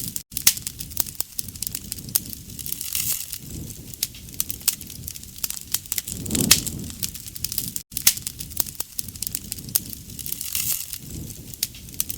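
Wood fire crackling and popping, with many sharp snaps over a soft low rush of flame. The same stretch of fire recording repeats about every seven and a half seconds.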